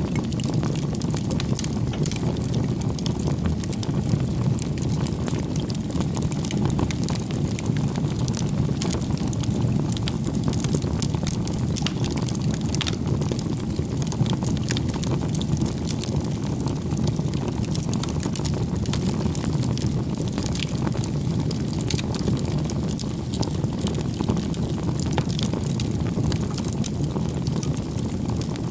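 Bonfire burning: a steady low rush of flames, with many small crackles and pops scattered through it.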